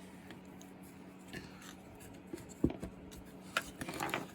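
Small handling sounds of chainsaw parts being worked apart by hand: a few light clicks and knocks, the sharpest about two-thirds of the way in, over a faint steady hum.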